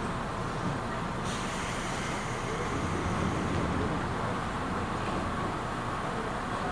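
Inside a standing Seibu New 2000 series electric commuter car: a steady hum from the train's on-board equipment, with a hiss joining about a second in and carrying on.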